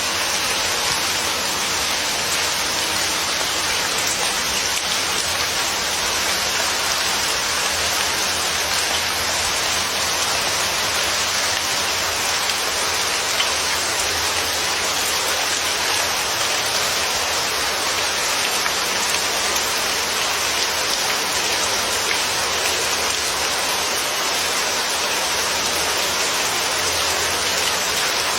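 Steady rain falling, a constant even hiss of drops with no thunder.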